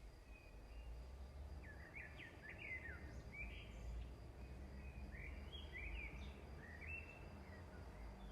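Small birds chirping faintly in quick runs of short rising and falling notes, twice in a row, over a steady low hum.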